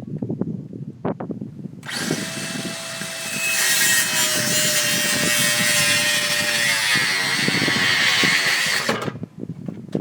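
A few knocks and handling sounds, then about two seconds in a power saw starts cutting wood. It runs loud and steady for about seven seconds, its motor pitch sagging near the end before it stops.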